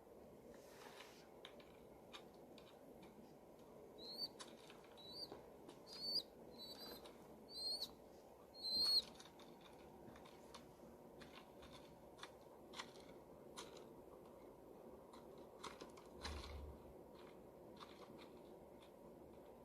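Young pigeon (squab) peeping: six short high cheeps about a second apart, from about four to nine seconds in, the last the loudest, with scattered faint clicks throughout.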